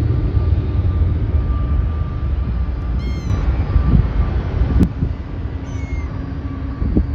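Steady low rumble of jet airliner engines with a faint whine, and short high chirping calls from a bird about three seconds in and again near six seconds. There is also a single sharp click.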